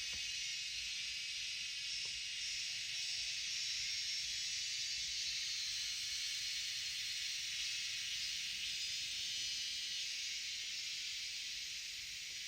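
Steady high-pitched hiss of a forest insect chorus, with a faint click near the start and another about two seconds in.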